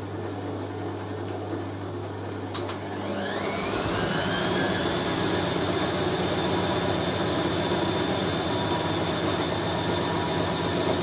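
Hoover A3060 Electronic 1100 washing machine: a click, then the motor's whine rises over about a second and holds at a steady, higher pitch as the drum speeds up into a spin.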